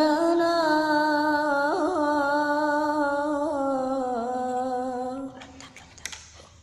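A single voice singing an Arabic sholawat unaccompanied, holding one long melismatic note on the word "judlana" with small ornamental turns, sinking slightly in pitch and trailing off about five seconds in.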